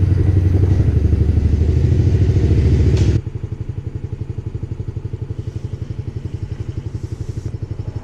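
Small pit bike engine running with a rapid, even putter. It is loud for about the first three seconds, then drops suddenly to a quieter, steady note.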